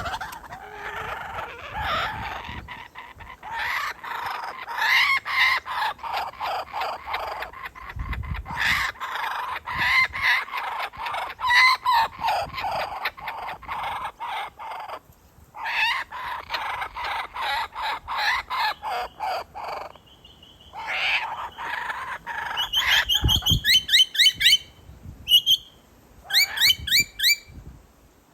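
Laughing kookaburras calling, a long run of rapid repeated cackling notes that rises and falls, breaking off briefly twice. Near the end come quicker, sharper high notes.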